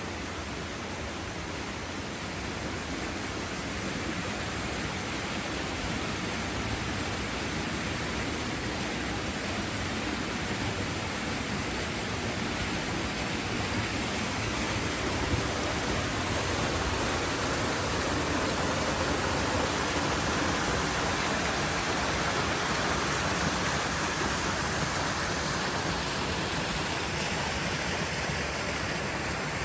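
Steady rush of running water, growing somewhat louder in the second half.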